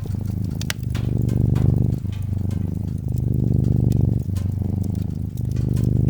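Domestic cat purring: a steady low rumble that switches between the in-breath and the out-breath about once a second. Sharp crackles and pops of a wood fire are scattered over it.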